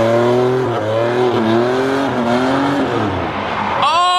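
Jeep Grand Cherokee Trackhawk's supercharged V8 revving hard with tyres squealing as the car slides, the engine pitch wavering up and down and dropping away about three seconds in. Near the end a man shouts "Oh!".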